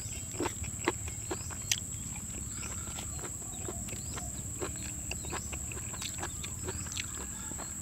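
Close-up eating sounds: a man chewing a mouthful of sticky rice and pounded long-bean salad, with wet mouth smacks and scattered short clicks, over a steady high-pitched hum.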